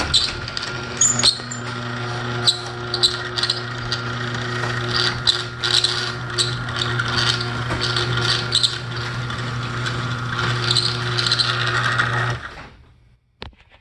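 Garage door running through a cycle with its moving parts not yet lubricated: a steady motor hum under irregular rattling, clicking and squeaking from the door's hardware. It stops suddenly near the end.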